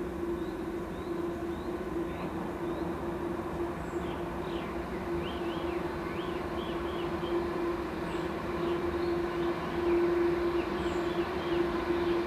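Electric freight train approaching out of a tunnel, a steady hum and rumble growing louder toward the end. Birds chirp over it.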